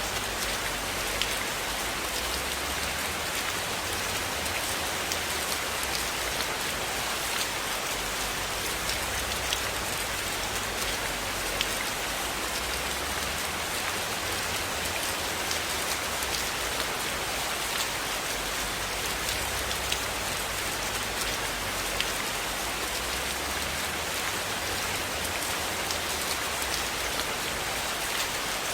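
Steady rain falling and pattering on a surface, with scattered sharp ticks and pops throughout.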